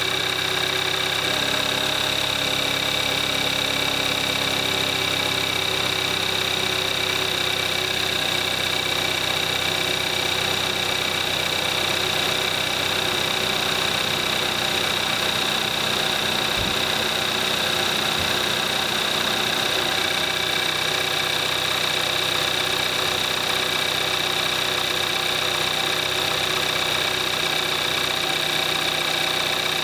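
2014 Kia Forte5's 2.0 GDI (gasoline direct-injection) four-cylinder engine idling steadily during warm-up after a cold start, at about 22,700 miles on conventional 5W-20 oil.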